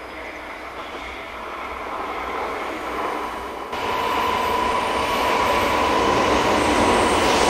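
300 Series Shinkansen train approaching along the platform, its rumble growing steadily louder. About halfway it jumps up, and a steady high whine joins in.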